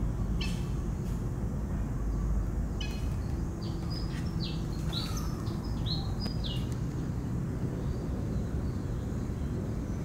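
A bird gives a run of short, high call notes, several falling in pitch at the end, from about three seconds in to about seven seconds in. Underneath, a steady low rumble of background noise runs throughout.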